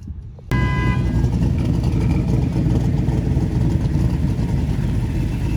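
A car engine running loud under acceleration, cutting in abruptly about half a second in and staying loud and steady.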